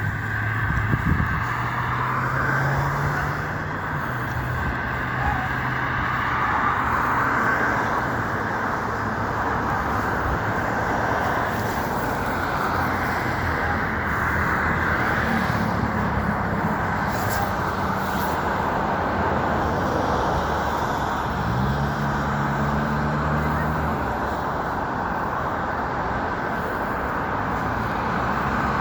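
Cars running past with steady road and traffic noise. An engine note rises and holds briefly twice: once near the start and again a little past two-thirds through.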